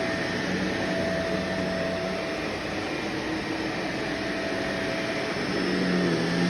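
Vacuum cleaner running steadily during whole-apartment vacuuming, a constant rush of motor and airflow with a faint hum that fades out and comes back.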